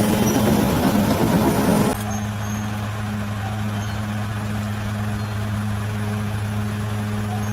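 Bulldozer's diesel engine working, loud and noisy for about two seconds. It then switches abruptly to a quieter, steady engine hum.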